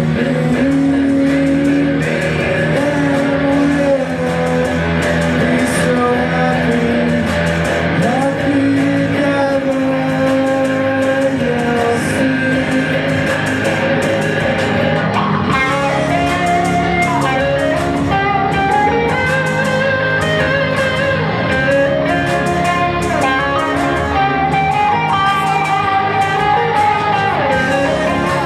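Live band playing an instrumental passage, led by guitar over bass, with held notes and some sliding pitches.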